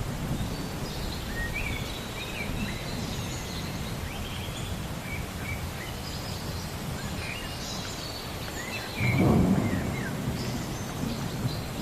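Thunderstorm ambience: a steady hiss of rain with birds chirping throughout, and a low roll of thunder about nine seconds in.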